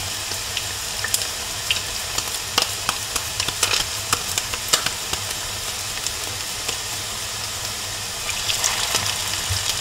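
Salmon patties frying in a shallow layer of vegetable oil in a skillet on medium-low heat: a steady sizzle with scattered pops and crackles, growing louder near the end.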